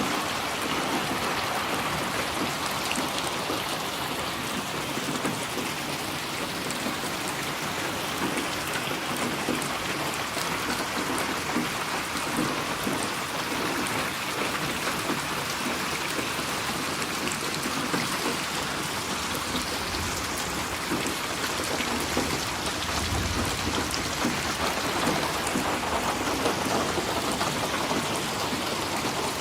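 Steady, heavy rain falling in a dense, even patter, with a low rumble of thunder about two-thirds of the way through.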